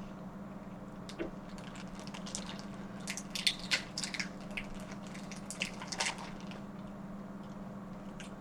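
Wet clicks and squelches of buttery seafood being handled and eaten, a rapid cluster of them in the middle, over a steady low hum.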